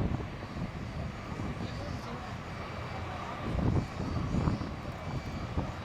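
Jet airliner engines heard as a steady low rumble with a faint high whine, swelling briefly about three and a half seconds in.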